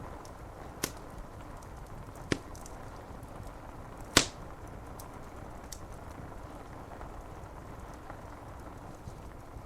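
Steady rain hiss with a wood fire crackling, three sharp pops about one, two and a half, and four seconds in, the last the loudest, and fainter ticks between.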